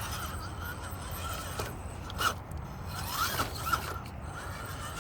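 Axial SCX10 RC scale crawler's electric motor and gears whining as it crawls, the pitch wavering with the throttle, with a couple of short louder sounds about two seconds in and again about three and a half seconds in.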